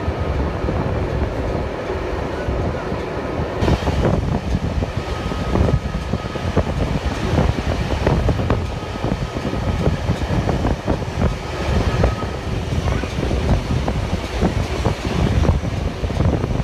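Heritage passenger train rolling along the track, heard from a carriage window: a steady rumble of wheels on rail with a busy, irregular clatter of knocks that picks up about four seconds in.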